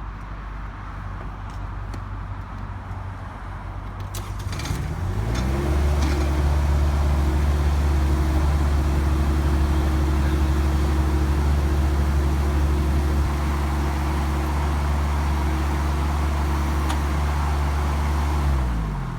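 Subcompact tractor's diesel engine idling, then revved up about five seconds in and held steady at high throttle, before being throttled back down at the end.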